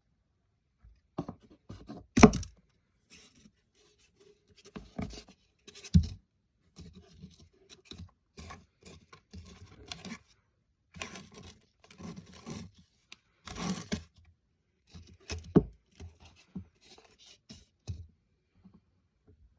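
Irregular scraping and rustling broken by a few sharp knocks, the loudest about two seconds in, at six seconds and near fifteen seconds.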